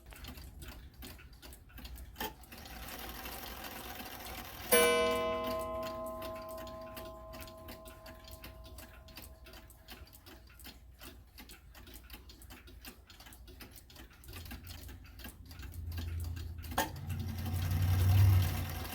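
Seth Thomas beehive mantel clock ticking steadily. About five seconds in, it strikes once and the ring dies away slowly. A low rumble builds near the end.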